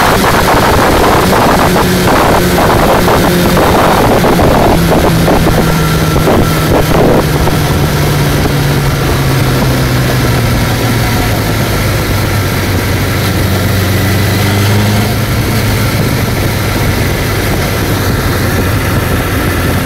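Suzuki GSX-R 750 SRAD inline-four running hard on the move, with heavy wind buffeting on the microphone for the first several seconds. After that the engine note falls slowly as the bike slows.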